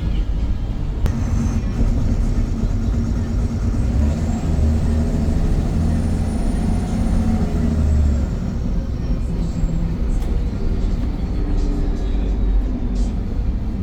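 VDL Pulsar single-deck bus running on the road, a steady low engine rumble. About four seconds in the engine note and a faint high whine rise in pitch, then ease back down a few seconds later.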